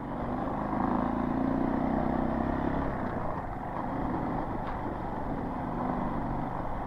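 Dirt bike engine running at steady, moderate revs while riding along a trail, easing off slightly about three seconds in.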